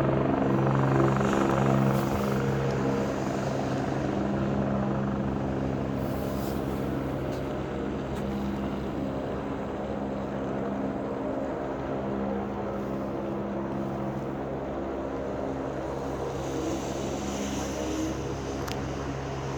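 Helicopter's rotor and turbine running with a steady, pitched hum, easing gradually quieter over the first several seconds and then holding level.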